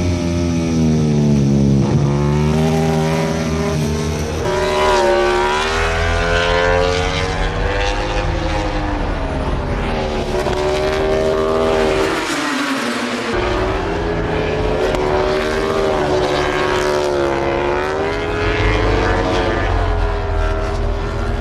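MotoGP race motorcycle engines running at high revs, their pitch rising and falling over and over as the bikes accelerate, shift and brake.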